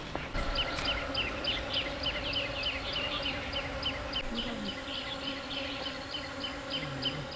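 Insects buzzing in a steady drone, with a rapid, regular series of short high chirps at about four a second.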